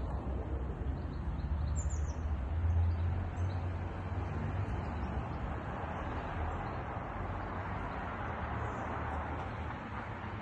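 Birds chirping a few short high notes, clearest about two seconds in, over a steady low rumble and hiss of outdoor background noise.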